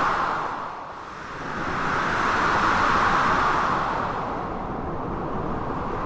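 Blizzard wind blowing in gusts: a loud rush that dips about a second in, swells again, and eases off toward the end. A steady low rumble of sea surf runs underneath.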